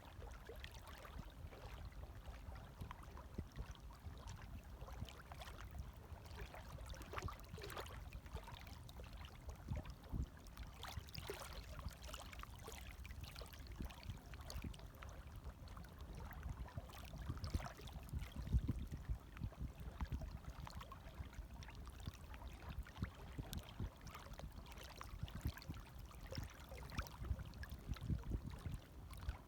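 Gentle small waves lapping, a steady low wash broken by many small splashes and gurgles.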